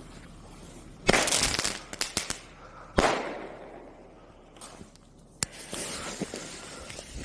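Airbomb fireworks going off: a rushing hiss of a launch about a second in, a few sharp cracks, then a loud bang about three seconds in that echoes away. Another sharp bang near five and a half seconds is followed by another rushing hiss.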